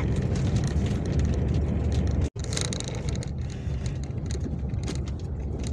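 Steady low rumble of a vehicle driving on a road, engine and tyre noise, cut off for an instant about two seconds in.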